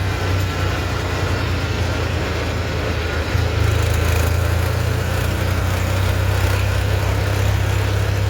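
Tractor's diesel engine running steadily under way, with a low, even drone; it gets louder about three seconds in as the throttle or load increases.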